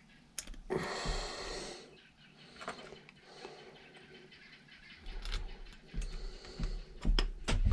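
Clicks, knocks and clatter of small carburetor parts and hand tools being handled, with a rustling, hissing noise lasting about a second near the start.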